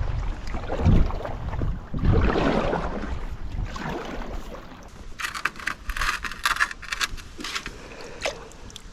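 Packraft being paddled: paddle strokes splashing in the water about once a second, with wind on the microphone. About halfway through the strokes die down and a rapid crackle of small clicks takes over.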